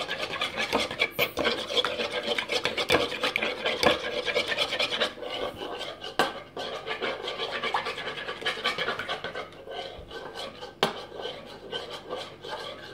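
A utensil stirring and scraping a thick vaseline-and-glue slime mixture around a bowl, a steady run of scratching with small clicks against the bowl, busier in the first half.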